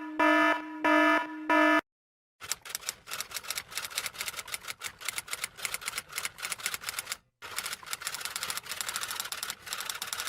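A pitched electronic beep repeats a few times in quick succession and then stops. After a short pause comes fast, continuous clacking of typing keys, with one brief break partway through.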